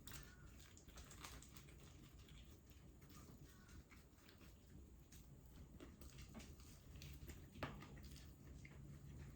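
Faint eating noises: scattered soft clicks and crackles of chewing and handling food, with one sharper click about three quarters of the way through.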